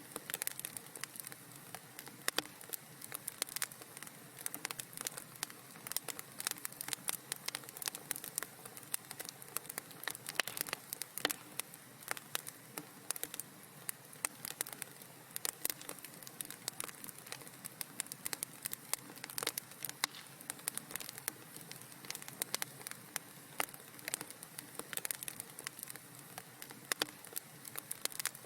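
Wood fire crackling steadily in a fireplace: many quick irregular pops and snaps over a soft hiss.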